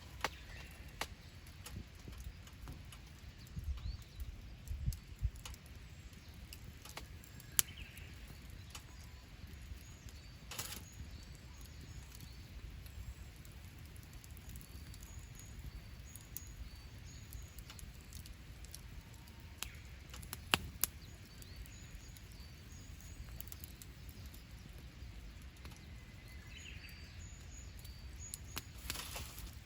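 Wood campfire crackling, with scattered sharp pops over a low steady rumble. Faint short bird chirps repeat in the background.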